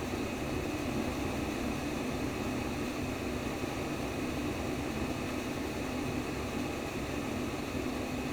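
Steady womb-sound white noise: an even, low-pitched rushing hiss with no breaks or audible beat.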